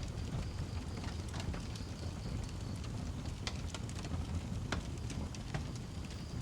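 Wood fire burning in a fireplace: a steady low rush with scattered sharp crackles and pops, the loudest snaps about three and a half and nearly five seconds in.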